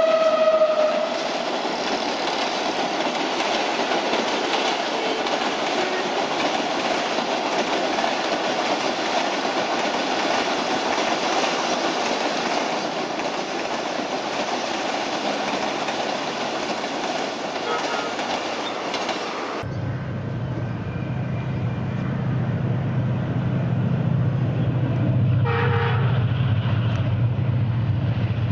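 A diesel locomotive's horn ends about a second in, then a passenger train's coaches roll past with a steady rush of steel wheels on rail. After an abrupt change, a diesel locomotive's engine runs with a low, steady rumble as it approaches hauling its train.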